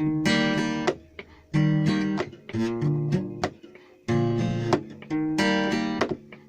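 Acoustic guitar strumming chords in groups of sharp strokes that ring and die away between changes of chord. It is an instrumental passage of a song, with no singing.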